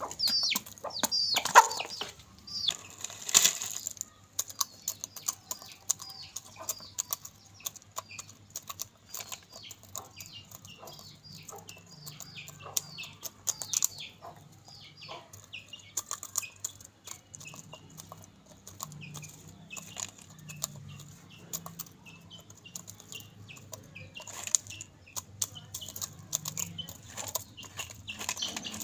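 Chickens pecking and eating crisp papar: a rapid, irregular run of sharp pecks and crunches. Small chicks peep in short, high, falling chirps throughout. There is a louder flurry, likely wings flapping, about two to four seconds in.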